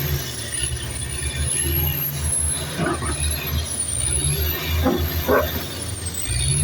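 Heavy earthmoving machinery's diesel engine running under load with a steady low drone and a thin, high, wavering whine, with three short squeals about three and five seconds in.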